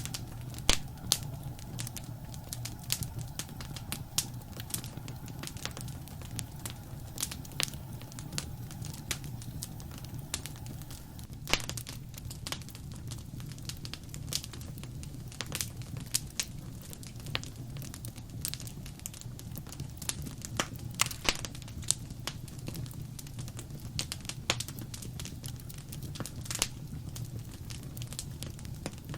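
Wood fire crackling in a fireplace: irregular sharp pops and snaps scattered throughout, over a steady low rumble.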